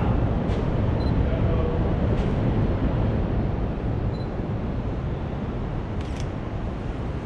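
Steady low rumble of wind buffeting the microphone, with a few faint clicks about half a second, two seconds and six seconds in.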